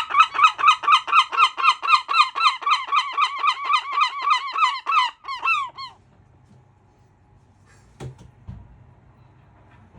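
A seagull calling: a fast run of repeated yelping notes, about five a second, that slows near the end and stops about six seconds in. Later comes a single sharp click.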